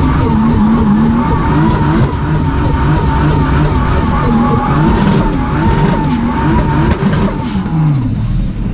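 Turbocharged Mercedes M104 straight-six in a CLK drift car at high revs during a drift, with the revs wavering and the tyres squealing. Near the end the revs drop away to a lower steady note.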